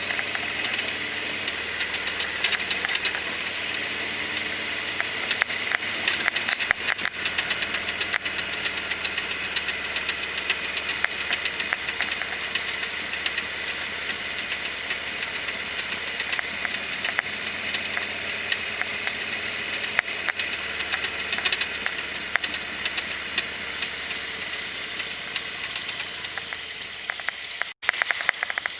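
Harley-Davidson Sportster XL1200R V-twin engine running, with a dense clicking rattle over it, the kind of unexplained noise the owner is still hunting down. The sound cuts out sharply for an instant about a second before the end.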